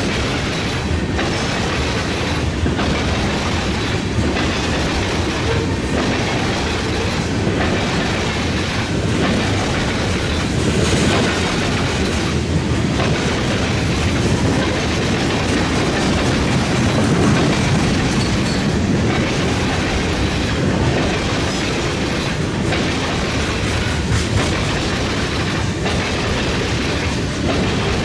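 Freight train cars rolling past at speed, the wheels clattering over the rail crossing in a steady repeating beat about every second and a half.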